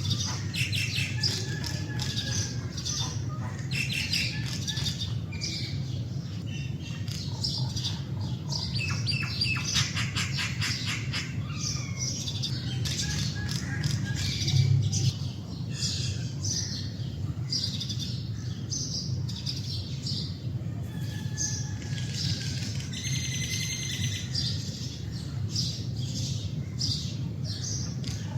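Common mynas calling: a varied, busy run of chirps, whistles and harsh squawks, with fast rattling trills about a third of the way in and again later. A steady low hum runs underneath, with a brief low swell about halfway.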